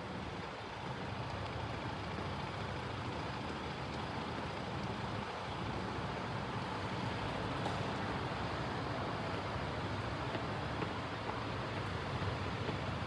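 Steady vehicle rumble, growing slowly louder.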